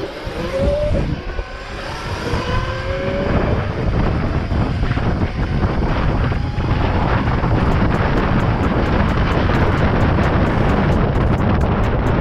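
Wind rushing over the microphone of a rider on an electric dirt bike, growing louder over the first few seconds as speed builds. Early on, the whine of an electric motor rises in pitch as it accelerates.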